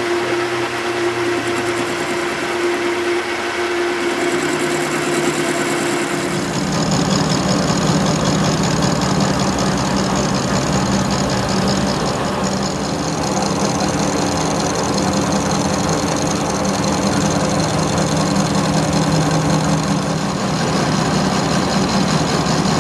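A machine running steadily, a continuous mechanical hum that grows louder and deeper about six seconds in.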